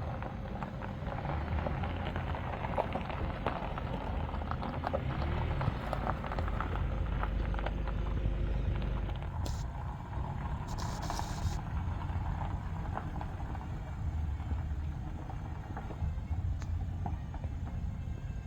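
Steady low rumble with many small crackles and clicks over it.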